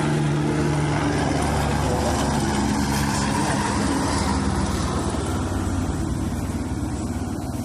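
Police helicopter flying low nearby: a steady rotor and engine drone that fades a little near the end.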